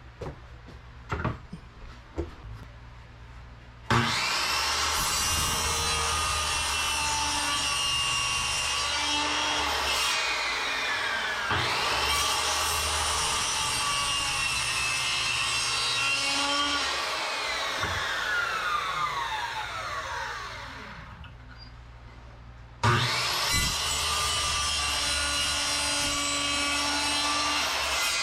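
High-speed electric power tool, such as a saw or grinder, spinning up suddenly and running at a steady whine, dipping in pitch under load and recovering, then winding down with a long falling whine. It stops and starts again near the end, after a few light knocks before the first start.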